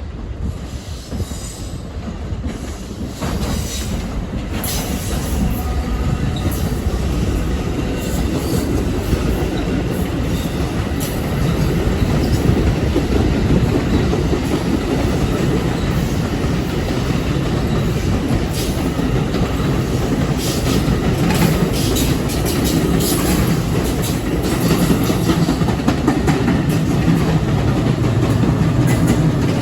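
A train running past on the tracks, its wheels clicking over the rail joints; the sound builds over the first few seconds and then stays loud and steady.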